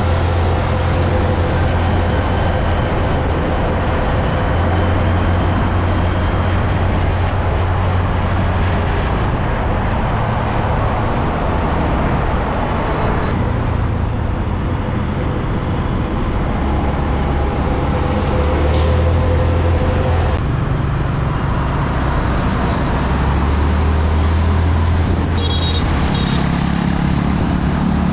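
Road traffic with heavy trucks driving past one after another: a steady low engine hum under loud tyre and road noise, the mix changing every few seconds as each vehicle goes by.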